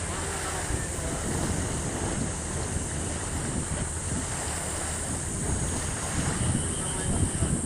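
Wind buffeting the microphone over a steady wash of sea noise.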